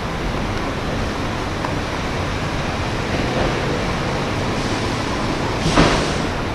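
Steady rushing wind noise on the microphone, with a brief louder rush near the end.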